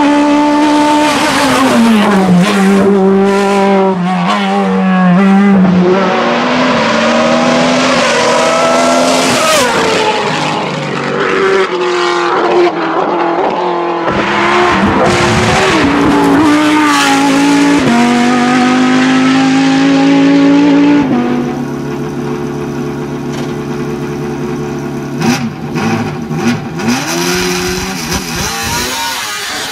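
Hillclimb race car engines at full throttle. The engine note climbs and then drops sharply again and again as the cars shift up through the gears. Past the two-thirds mark the sound turns quieter and more distant.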